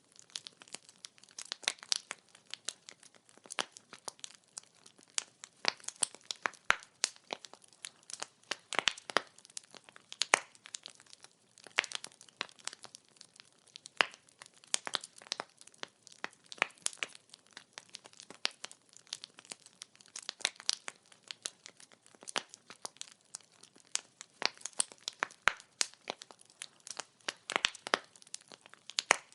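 Burning firewood crackling: irregular sharp pops and snaps, several a second, over a faint hiss.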